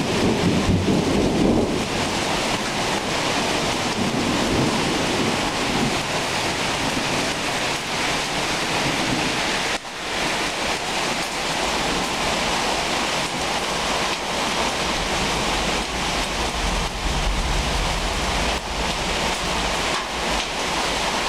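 Heavy rain pouring steadily, with a low rumble of thunder in the first couple of seconds that dies away.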